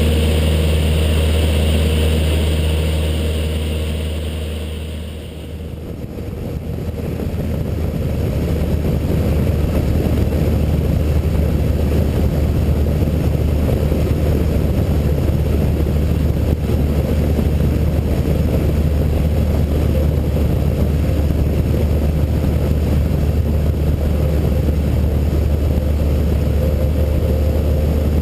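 Cessna 152's four-cylinder Lycoming piston engine and propeller droning steadily in flight. About five seconds in the sound briefly dips, then carries on as a rougher, noisier drone.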